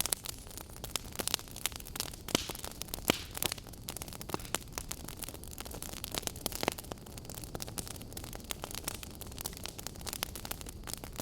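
Burning logs crackling: frequent irregular sharp pops and snaps over a steady low noise.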